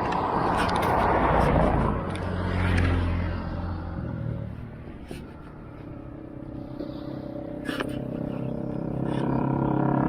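Car engine running, with a rush of passing traffic in the first two seconds and the engine note rising near the end.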